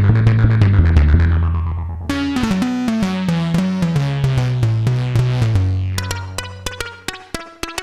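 Arturia MicroBrute monophonic analog synthesizer playing a fast stepping bass sequence, the notes changing about four times a second with a bright, buzzy tone. About two seconds in a new, brighter phrase starts, and near the end a held low note fades out under sharp, evenly spaced ticks.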